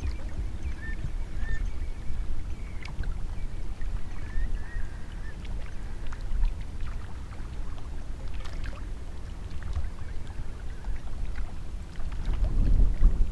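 Water sounds around a small dinghy on a river: a steady low rumble with a few sharp knocks, and faint short high chirps in the first few seconds.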